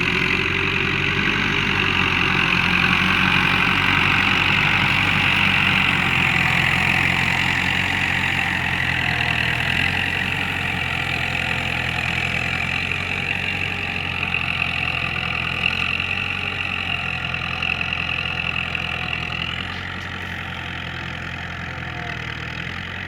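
Iranian-built 285 tractor's four-cylinder diesel engine running steadily, growing gradually quieter and dropping a step about twenty seconds in.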